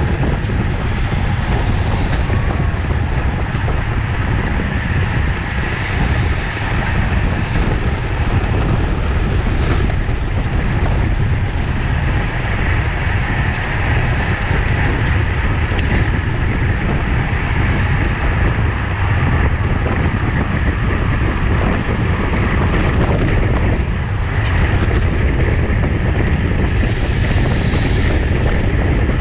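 Loud, steady wind rushing over the microphone of a camera riding on a racing bicycle at speed.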